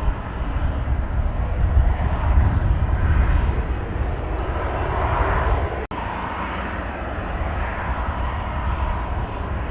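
Airliner engines running with a steady rumble and a faint whine, over heavy low wind buffeting on the microphone. The sound cuts out briefly about six seconds in.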